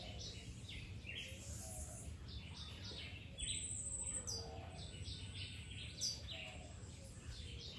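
Small birds chirping in short, high chips, several to the second, with a brief high buzzing trill about three and a half seconds in.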